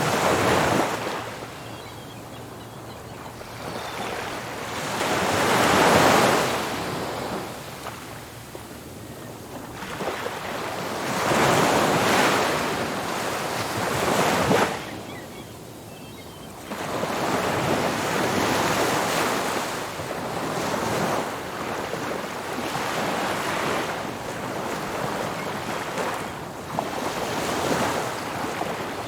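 Ocean surf: waves breaking and washing up the beach, swelling and falling away every six seconds or so, with the biggest crashes near the start, about six seconds in and about twelve seconds in.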